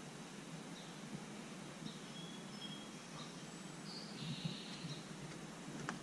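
Faint, scattered bird chirps and short whistled calls over a steady outdoor hiss, with a few soft footsteps about four seconds in.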